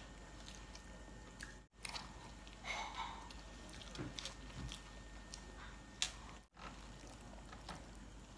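Faint chewing and biting noises as people eat burgers, with small mouth clicks and one louder click about six seconds in. The sound drops out for an instant twice.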